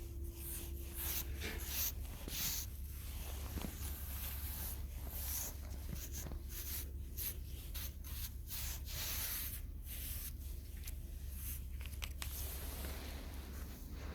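Irregular scratching and rustling strokes, several a second, over a steady low hum.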